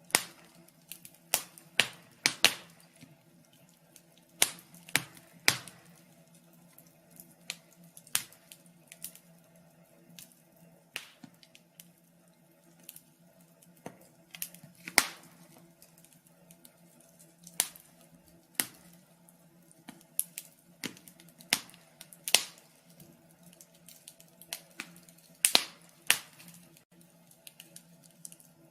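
Fire crackling: sharp, irregular pops and snaps, a sudden one every second or so with some close clusters, over a faint steady low hum.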